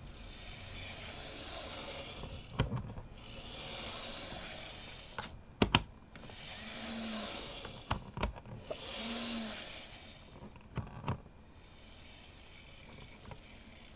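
Handling noise from N gauge model train cars and their plastic case: four swells of rustling, each about two seconds long, with sharp plastic clicks between them, the loudest about halfway through.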